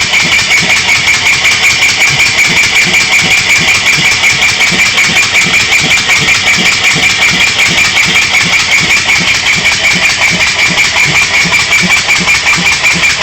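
Briggs & Stratton 3.5 HP single-cylinder engine, its camshaft reworked, running steadily on compressed air: even exhaust puffs about four a second over a steady high-pitched hiss.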